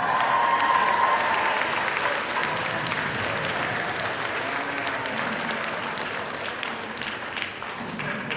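Large audience of high-school students clapping and cheering with a shout or whoop, loudest in the first second or two and then slowly dying down.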